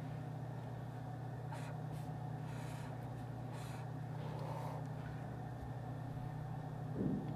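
Office room ambience: a steady low hum, with a few faint rustles and scratches in the middle and a soft thump near the end.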